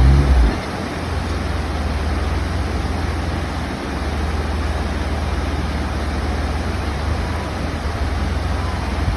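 Off-road 4x4 engine revving with rising pitch, easing off about half a second in, then running steadily as a low rumble under a constant rushing noise.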